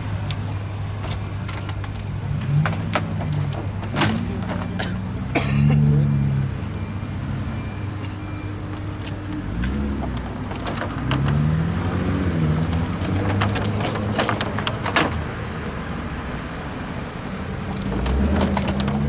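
Car engines idling as cars drive slowly past, with several short revs rising and falling in pitch and scattered sharp clicks and knocks.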